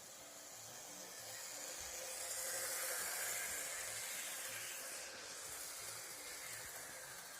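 Model TE-3 diesel locomotive running along the track, its running noise a rushing hiss that swells to a peak about three seconds in and then fades, as when it passes close by.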